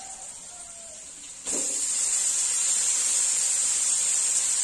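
Boiled fern shoots dropped into hot oil in a wok, setting off a sudden sizzle about a second and a half in that then carries on as a steady loud hiss.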